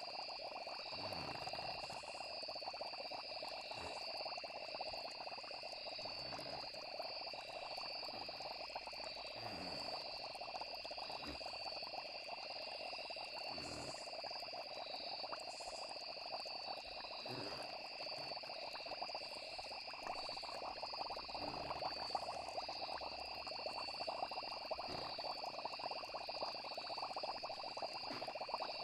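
Night-time nature ambience: a dense frog chorus over a steady high trilling of crickets or other insects, with a short low falling sound every two to four seconds.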